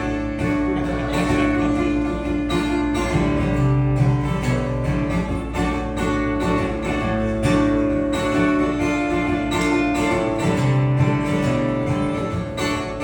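Acoustic guitar strumming a steady instrumental passage, with some notes held under the strums.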